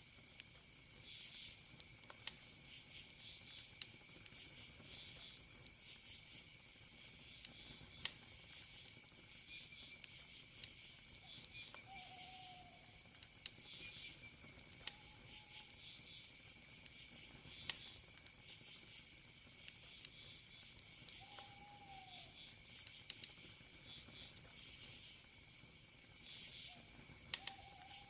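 Wood fire crackling, with sharp pops scattered throughout, over crickets chirping in regular pulses and a constant high-pitched insect trill. A few short, faint calls from an unseen animal stand out about twelve, fifteen, twenty-one and twenty-seven seconds in.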